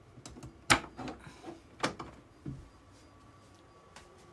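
A few sharp knocks and clatters of objects being handled and set down on a hard surface, the loudest about two-thirds of a second in and another near two seconds, with lighter ones between.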